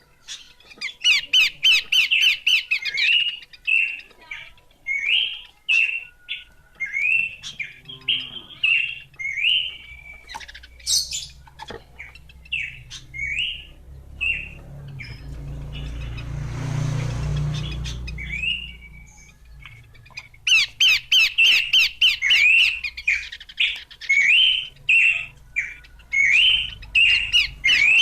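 Horsfield's babbler (pelanduk semak) calling: runs of short, hooked whistled notes with fast ticking in between, dense at the start, sparser through the middle and dense again near the end. A low rumbling swell rises and fades around the middle.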